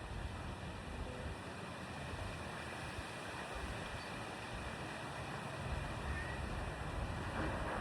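Steady noise with an uneven low rumble that grows stronger in the last couple of seconds, and a faint short chirp about six seconds in.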